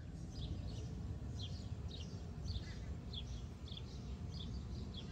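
A bird chirping over and over, short high downward chirps about twice a second, over a steady low outdoor rumble.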